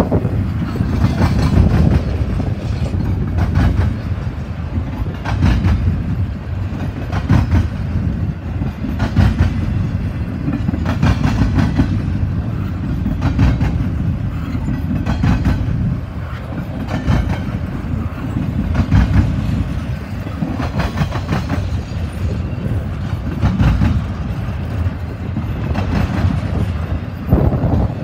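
Double-stack intermodal freight train rolling past at speed. Its wheels and well cars keep up a steady low rumble, with a clickety-clack of wheel trucks over the track coming about every two seconds.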